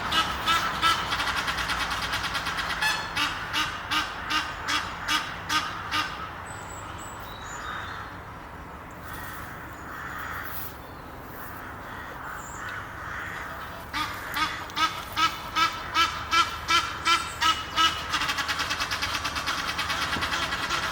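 Egyptian goose honking in loud, harsh calls repeated about three times a second, with a lull of softer calls in the middle before the honking starts up again and gets faster near the end.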